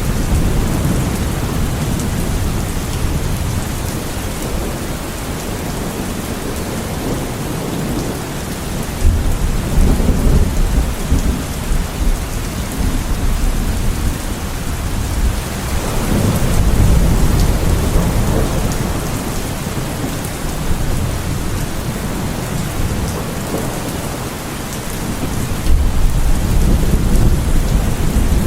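Thunderstorm: heavy rain falling steadily, with deep rolls of thunder swelling up three times, about a third of the way in, past the middle and near the end.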